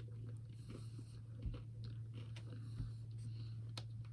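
A person chewing and biting a Magnum Double Caramel ice cream bar, faint irregular small crunches and mouth sounds over a steady low hum.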